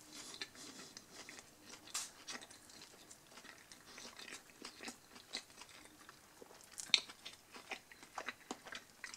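Faint close-up chewing of a mouthful of burger: irregular soft clicks and smacks of the mouth, a little louder about two seconds in and around seven seconds.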